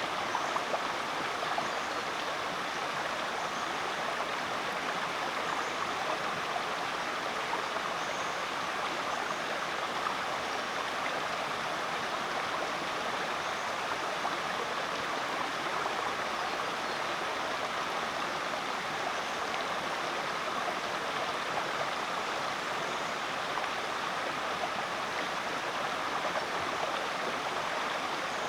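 A rainforest creek flowing steadily, a continuous rush and babble of running water.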